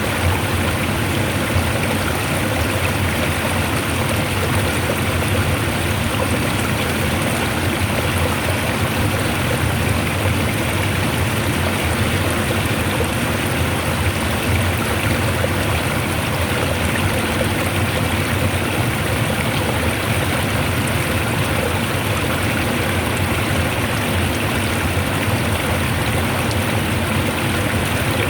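Water flowing strongly in a steady, unbroken rush.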